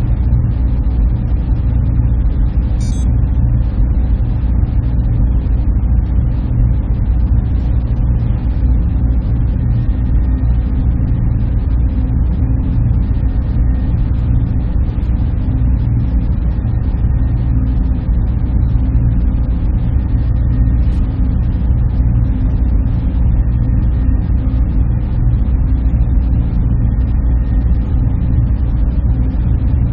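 Steady hum and rumble of a server room's machines: cooling fans and air handling, heavy in the low end, with a few faint steady whining tones above it.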